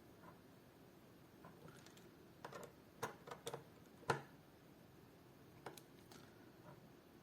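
Near silence with scattered light clicks and taps of small hard parts being handled, the sharpest about four seconds in.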